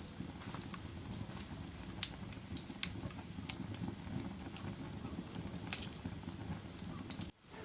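Fire crackling: a steady low rumble of burning with sharp pops every second or so. The sound cuts out very briefly near the end.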